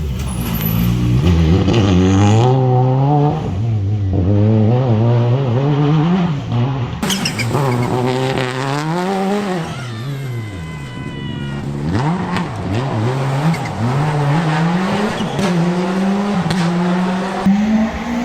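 Rally car engine revving hard and dropping back over and over as the car is driven through a stage, its pitch climbing and falling every second or two. A brief high squeal rises over it about ten seconds in.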